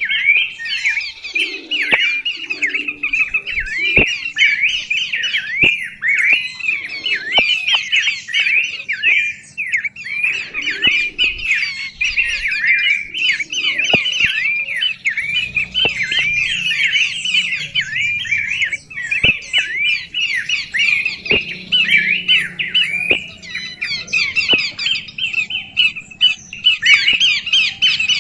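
Songbird singing and chattering without pause, fast chirped notes repeated several times a second, with occasional sharp clicks.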